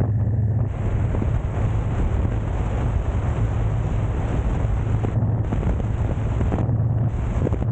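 Steady rushing of a mountain valley stream, with a strong low rumble underneath.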